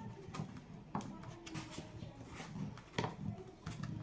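A few irregular sharp knocks and clicks from hand work on a wooden door jamb, the loudest about three seconds in.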